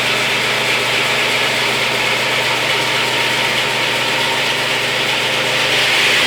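A machine's engine or motor running steadily at a constant speed, with a strong, even hiss over its hum.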